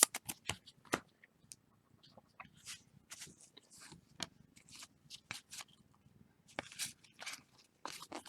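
Trading cards being handled and flipped through: scattered light clicks and short rustles of cards and packs.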